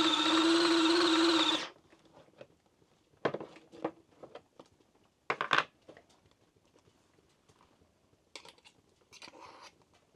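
A small electric motor whirring steadily at high speed, which cuts off abruptly about a second and a half in. Scattered light clicks and knocks follow, with a sharper clatter about five and a half seconds in.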